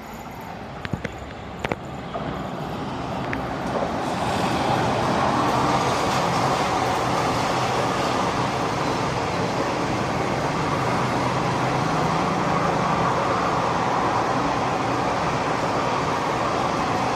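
Passenger train of ICF coaches running past, a steady rush and rumble of wheels on rail that comes up about four seconds in and holds. A few sharp clicks sound in the quieter first seconds.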